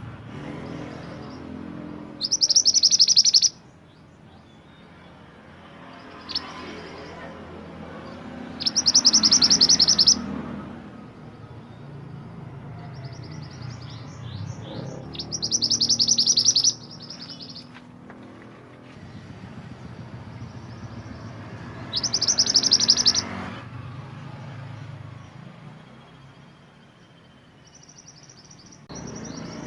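Mantenan gunung songbird singing: four loud, high, rapid chattering trills of about a second each, spaced several seconds apart, with softer chirps between them.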